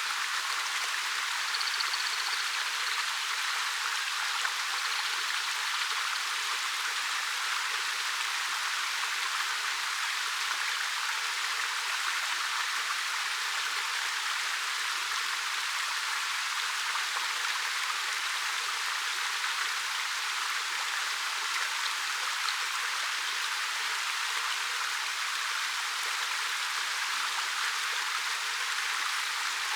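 A 13 m waterfall falling over rock: a steady, unbroken rush of water, mostly hiss with little low rumble.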